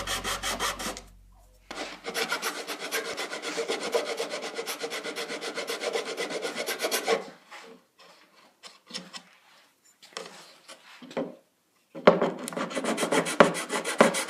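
Rapid back-and-forth rasping of a hand file on a small piece of wood, about eight strokes a second. The strokes pause briefly about a second in, then run steadily. After about seven seconds they give way to a few scattered short strokes, and they run steadily again near the end.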